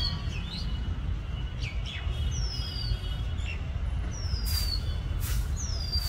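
Birds calling: a few thin, high whistles that each slide downward, one every second or two, over a steady low background rumble.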